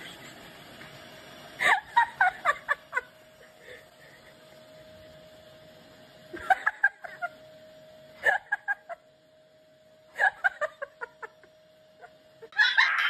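A person laughing in four short bursts of quick 'ha-ha' pulses, over a faint steady hum.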